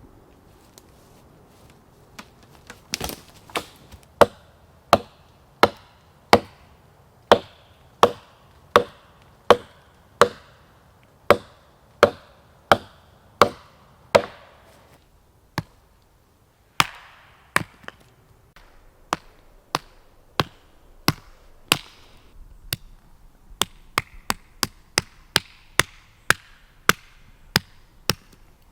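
Small pieces of wood being chopped into kindling: a long run of sharp wooden knocks, roughly one every second or less, a pause of a couple of seconds just past the middle, then quicker, lighter knocks near the end.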